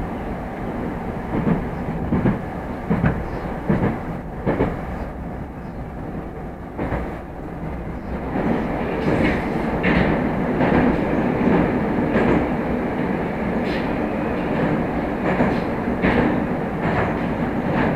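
Moscow metro train running between stations: a steady rail rumble with wheels clacking over rail joints, growing louder about halfway through.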